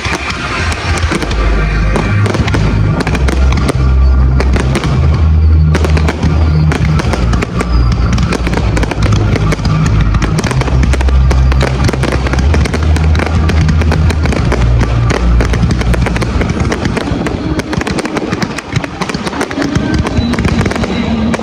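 Fireworks display: many firework bangs in quick succession. Music with a heavy bass line plays loudly along with them and stops about three-quarters of the way through.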